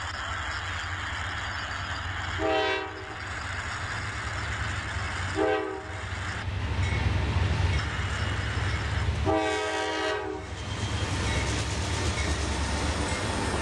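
Diesel freight train passing, its locomotives rumbling steadily, while the lead locomotive's air horn sounds three times: two short blasts about three seconds apart, then a longer blast of about a second.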